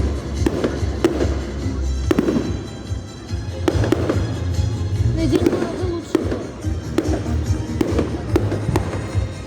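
Fireworks display with rockets going off in irregular quick succession, several sharp bangs a second over a continuous low rumble, with music underneath.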